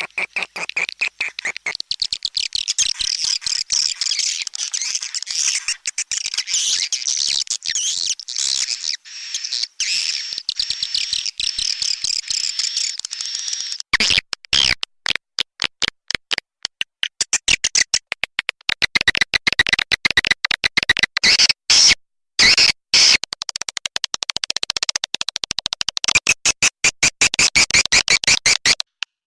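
Swiftlet lure call ('suara tarik'): a dense layered twittering of swiftlet chirps. About halfway through it breaks into a rapid train of short clicking pulses, with the chirping still going.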